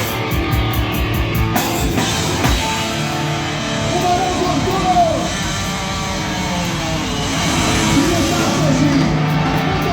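Live rock band playing, with distorted electric guitar and drums and a gliding lead line over the top, as heard from the audience.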